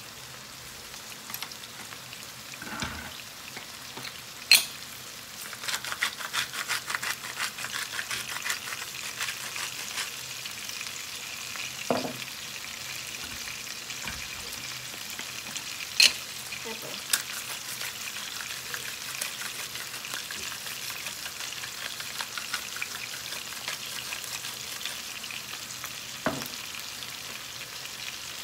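Pork spare ribs sizzling as they fry in a pan. The sizzle turns into busier crackling about five seconds in, and a few sharp knocks of a utensil against the pan come as they are stirred.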